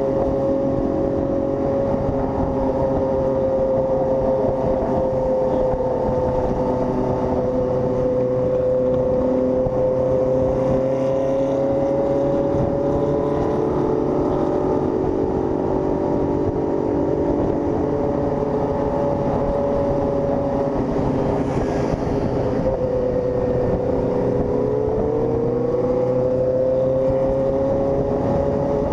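Honda CG 160 Fan motorcycle's single-cylinder engine running steadily under way at road speed. Its pitch dips slightly past the middle and then climbs back.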